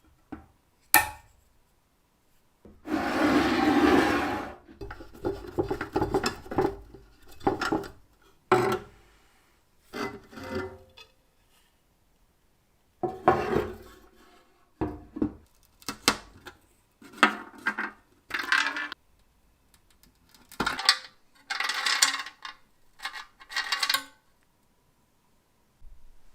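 Hand work on old metal parts: a sharp click about a second in, then a long scraping rub, followed by a string of short scrapes, knocks and rattles with a couple of pauses.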